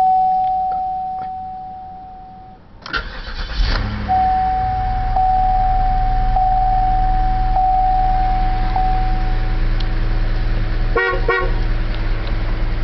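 The car's warning chime rings in steady pulses. About three seconds in, the 2008 Cadillac DTS's Northstar V8 cranks and starts, then settles into a steady idle with the chime continuing over it. Near the end come two short toots of the horn.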